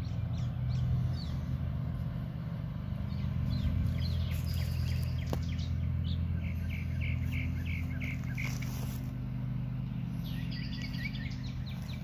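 Songbirds chirping, with quick runs of chirps around the middle and again near the end, over a steady low hum.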